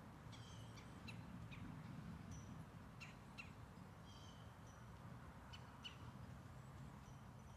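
Faint birdsong: short high chirps and quick downward-sweeping calls repeating every second or so, over a low steady rumble.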